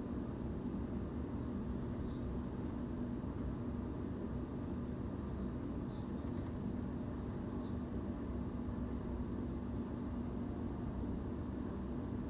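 Inside the carriage of a moving electric suburban train: a steady low rumble of wheels on the track, with a steady hum under it.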